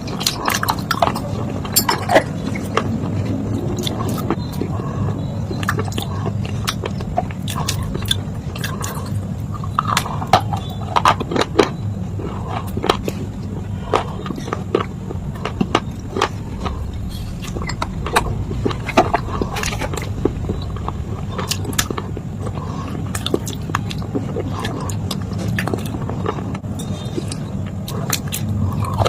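Close-up chewing and crunching of water-soaked slate and baked clay pieces: irregular sharp crunches, a few loud ones, over a steady low background hum.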